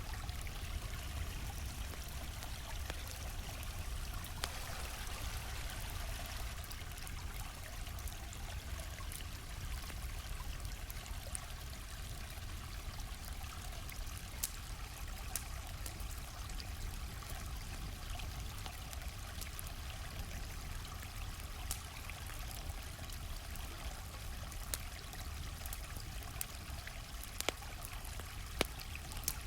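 A stream flowing steadily, with a campfire crackling over it in scattered sharp pops, two of them louder near the end.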